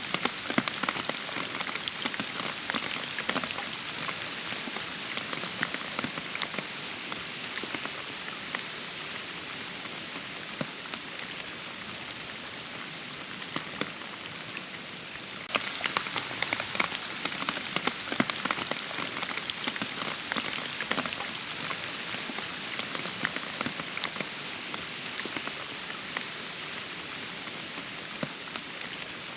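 Steady rain falling, with many separate drops pattering on nearby surfaces. About halfway through the drop patter turns abruptly louder and denser.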